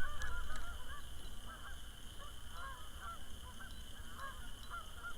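A flock of geese honking, many short calls following one another and overlapping throughout.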